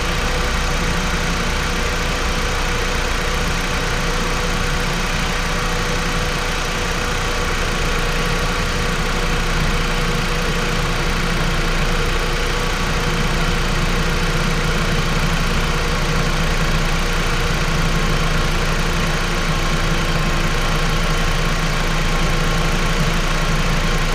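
Dodge Journey's engine idling steadily, heard up close in the open engine bay, with a few constant tones over its hum.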